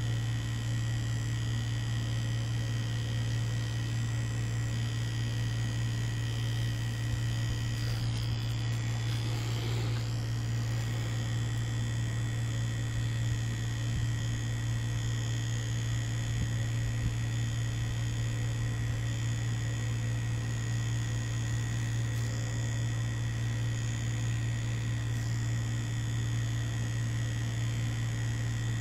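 Mummy Anubis tattoo machine buzzing steadily as it runs through the practice skin, one even low-pitched drone.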